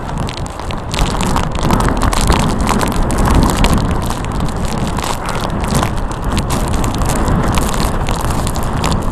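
Typhoon-force wind buffeting a phone's microphone: a loud, unbroken rush full of crackling gusts.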